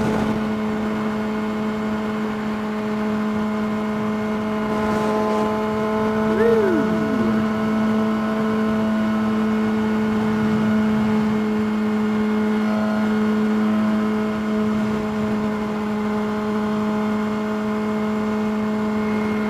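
Yamaha R6 inline-four sport-bike engine running at steady revs while cruising at highway speed, one constant tone with its overtones. A brief falling tone passes about six seconds in.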